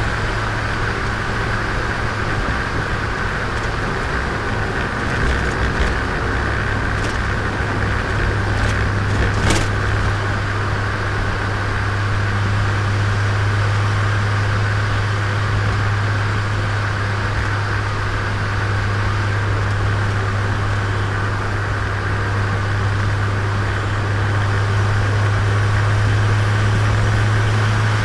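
Turbocharged Nissan Micra driving at a steady speed: an even engine drone over road noise, with a few short clicks a third of the way through.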